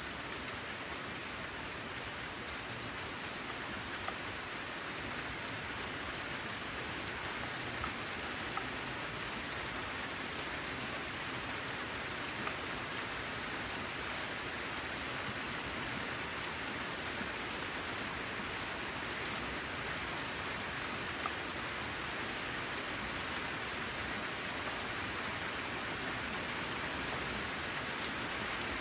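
Steady rain falling on a corrugated zinc-sheet roof: an even hiss with a few sharper drop ticks here and there.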